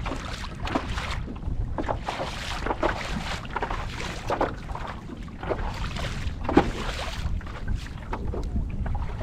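Wind rumbling on the microphone over water slapping and splashing against a kayak's hull in choppy sea, with irregular short splashes.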